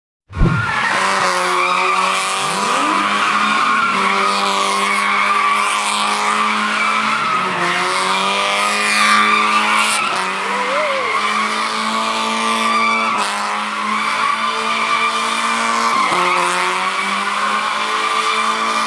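A car doing donuts: its engine held at steady high revs with a few brief dips, tires squealing continuously as they spin on the pavement.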